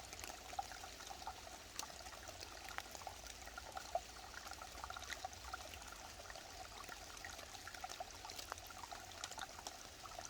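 Mountain stream flowing and burbling steadily, with many small splashes and gurgles.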